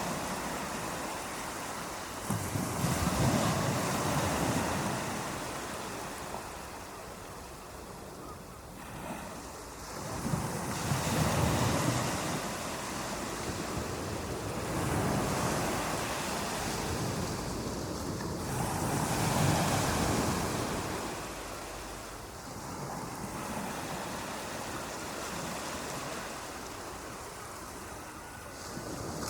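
Ocean waves breaking on a shore, washing in and drawing back in slow surges every four to eight seconds.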